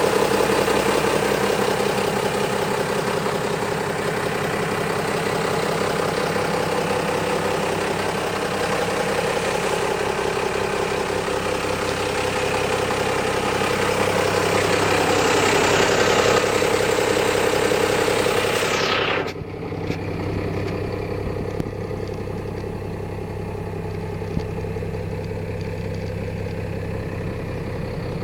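1988 Unimog SEE diesel engine running loud, with a rising whine partway through. About two-thirds in, the louder noise cuts off suddenly and the engine settles to a steady, quieter idle.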